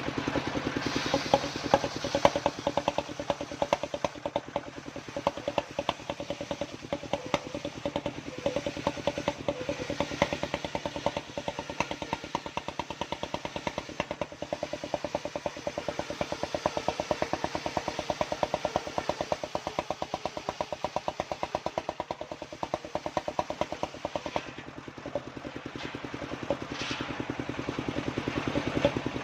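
Engine-driven homemade circular saw running steadily with a rapid, even firing beat, the blade cutting waru wood.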